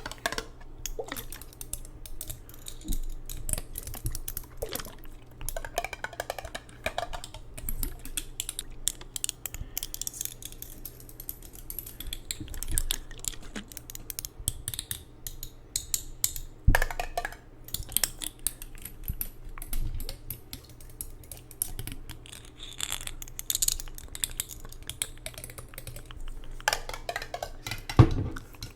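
ASMR tapping and clicking close to the microphone: rapid, irregular small taps and clicks with a few louder knocks, over a faint steady low hum.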